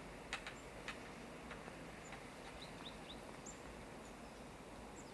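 Faint, steady outdoor background noise with a few short, high chirps from small birds scattered through it, and a couple of sharp clicks in the first second.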